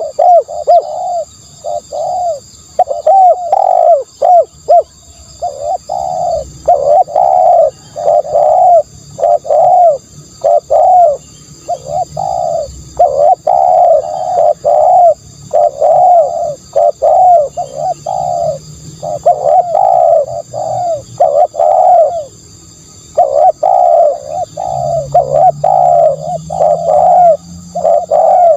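Spotted doves cooing over and over, a near-continuous string of short coo phrases following one another with brief pauses.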